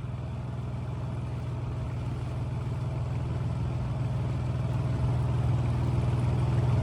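Small 7 hp four-stroke outboard motor running steadily at constant speed, pushing the boat upriver against a strong current; the engine hum grows gradually louder.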